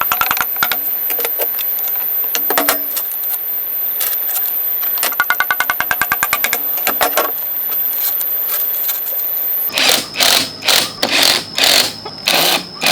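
Workshop tool noise: runs of rapid clicking, then, near the end, regular scraping strokes about one and a half a second.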